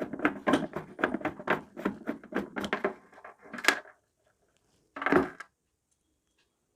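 A quick run of small clicks and knocks from parts being handled, then a sharp click and one short, louder clatter about five seconds in, after which it goes quiet.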